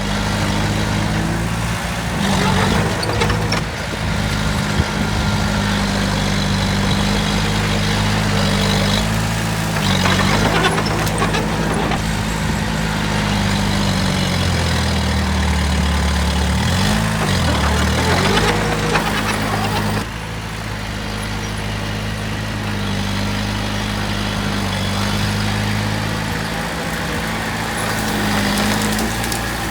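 Heavy diesel engine of earthmoving machinery running, its pitch falling and rising a few times as the throttle changes. The loudness drops abruptly about two-thirds of the way through.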